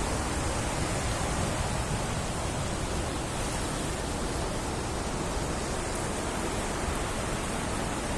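The River Don in flood: high, fast water rushing steadily.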